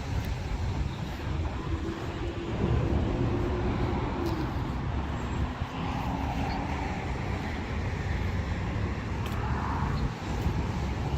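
Road traffic on a busy roadway: a continuous low rumble of passing cars, with engine hum and tyre noise swelling as vehicles go by.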